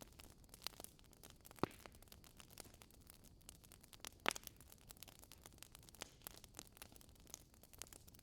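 Wood crackling in a burning Swedish fire log, with a steady patter of small crackles and two sharper pops, about one and a half and four seconds in.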